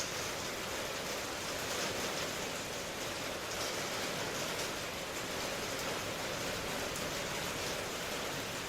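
Steady rain falling in an even hiss, with no distinct drips or thunder.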